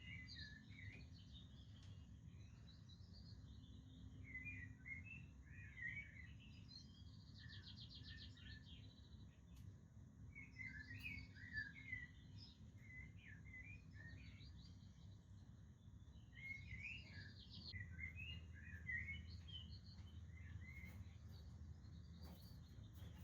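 Budgerigars chirping and chattering faintly in short clusters of calls, with a buzzy rapid trill about seven seconds in, over a steady low rumble.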